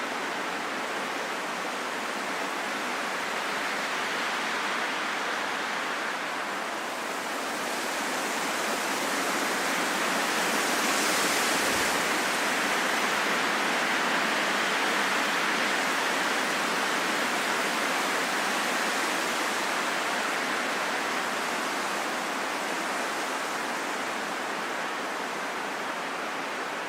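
Wind blowing as a steady rush that swells stronger about ten seconds in, then eases back.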